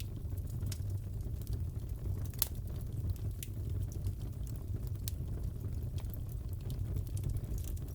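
Wood fire in a fireplace crackling: a steady low rumble of flames with scattered sharp pops, one louder snap about two and a half seconds in.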